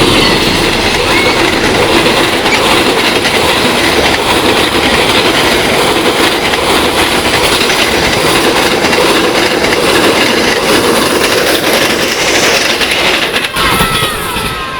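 A train running on its rails: a loud, steady noise that comes in suddenly and eases slightly near the end.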